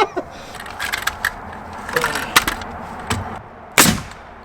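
A few small knocks and clicks of wood and metal being handled, then a pneumatic nail gun fires once with a sharp bang near the end.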